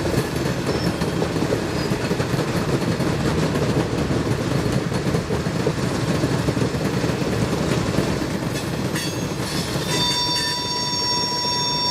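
A switching move with an ALCo S1 switch engine and its cars on the rails: a steady heavy rumble with clacking of wheels over the track. From about ten seconds in, a high steady squeal of steel on steel sets in.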